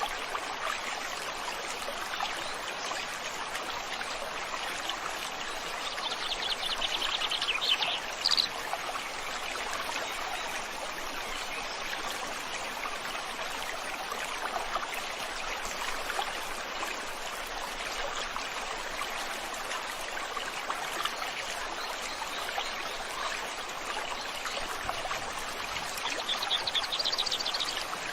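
Steady rush of a flowing river or stream. A bird gives a fast high trill about six seconds in, ending in a quick rising note, and trills again near the end.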